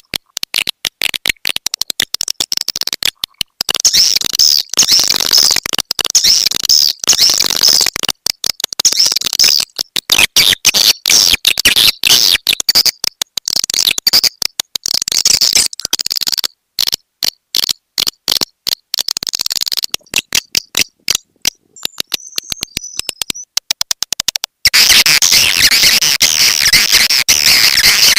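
Swiftlet lure-call recording: fast, high twittering and chirping of swiftlets in dense, choppy runs broken by many brief gaps. The chirping turns steadier and louder near the end.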